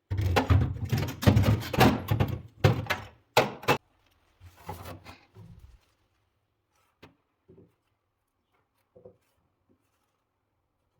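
A quick run of loud knocks and clatter for about four seconds, then a few single taps spaced a second or so apart.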